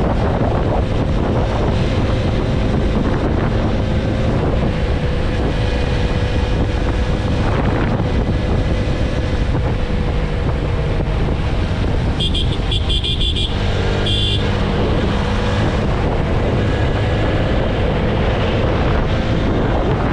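Motorcycle cruising at highway speed: wind noise on the microphone over the steady drone of the TVS Apache RTR 160 4V's single-cylinder engine. A little past halfway, a vehicle horn honks in a quick string of short beeps, then once more briefly.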